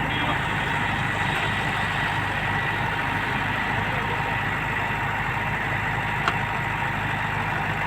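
Heavy machine's engine running steadily at low revs, with a single sharp click about six seconds in.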